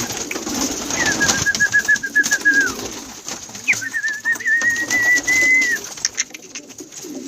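Domestic pigeons cooing, with two long warbling whistles partway through, each lasting about two seconds, and scattered light clicks and flutters.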